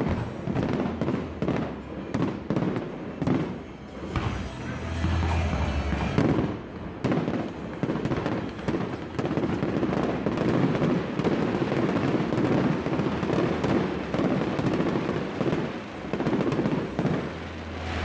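Fireworks display: aerial shells bursting in a rapid string of sharp bangs for the first few seconds, then a dense, continuous crackle of bangs and pops until near the end.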